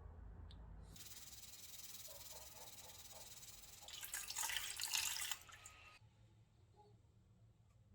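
A steady hiss of spray starts about a second in and grows louder for about a second around the middle, then stops.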